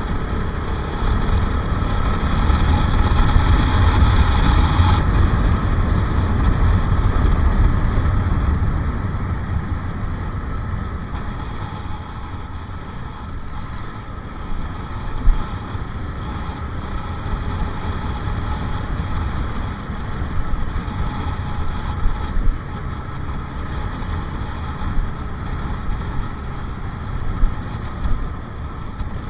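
Bajaj Pulsar RS 200's single-cylinder engine running under way, with rumbling wind noise. It is louder and higher for the first five seconds or so, then eases off and runs quieter and steadier.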